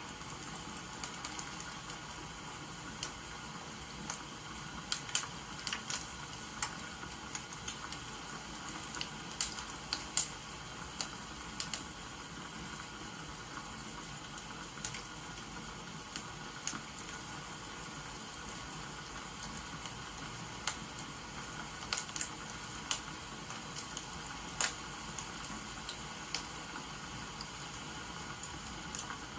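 Firewood crackling and popping in irregular sharp snaps over a steady rain-like hiss.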